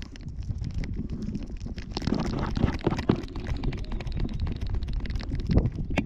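Rumbling, rustling handling noise with many small knocks and clicks from a camera strapped to a Yorkshire terrier as the dog moves about.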